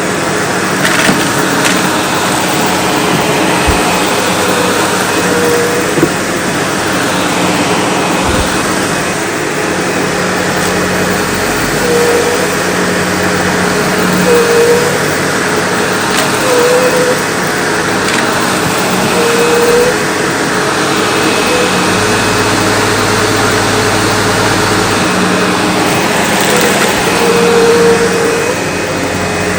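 SEBO Automatic X4 bagged upright vacuum cleaner running steadily on a test mess, its motor hum and airflow noise broken by small rises in tone every two to three seconds as it is worked through the debris.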